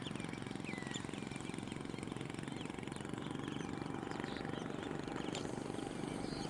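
A motor running steadily with a low, rapid pulsing, and faint bird chirps scattered over it, most of them in the first second or so.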